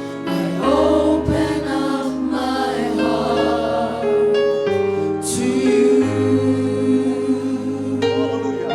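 Gospel choir singing with a live church band: sustained keyboard chords, bass and drums under the voices.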